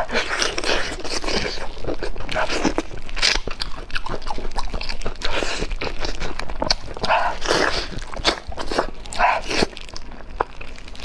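Close-miked eating of braised pork trotter: wet chewing and biting with irregular sticky smacks and clicks as meat is pulled off the bone.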